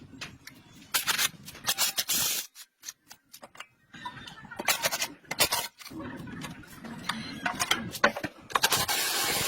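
A run of sharp clicks, knocks and scrapes of workshop tools on metal, broken by short silences, then a steady hiss that starts near the end.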